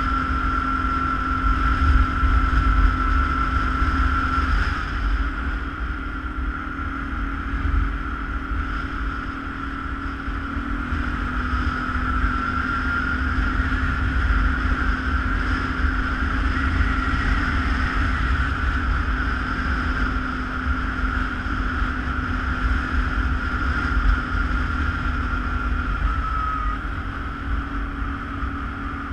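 ATV engine running steadily under way, with a high whine held over the engine note that dips slightly in pitch now and then, and wind rumbling on the microphone.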